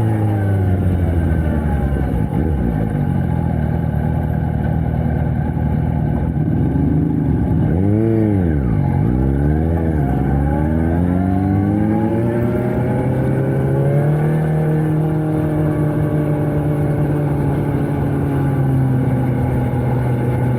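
Suzuki GSX-S750 inline-four through a Yoshimura Alpha T slip-on exhaust under way. The engine note falls as the throttle rolls off, dips and rises sharply twice in quick succession near the middle, then climbs and holds a steady pitch.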